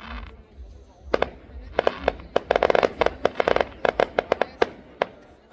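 Bomba Party Sensation Pink firework going off in a rapid, irregular run of sharp bangs and crackles. It starts about a second in and is thickest in the middle.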